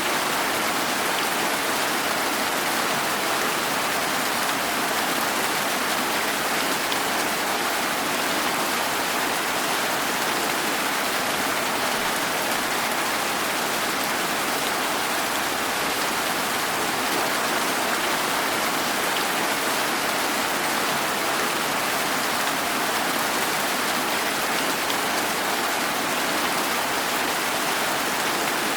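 Steady rain falling, an even hiss of drops on surfaces with no breaks or changes in intensity.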